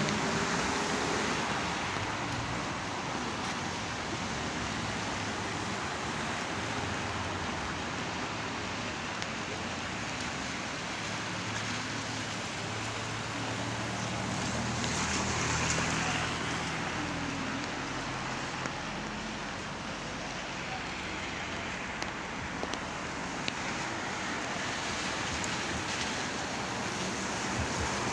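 Steady rain falling, an even hiss throughout, with a low hum in the middle and a few faint drips or ticks near the end.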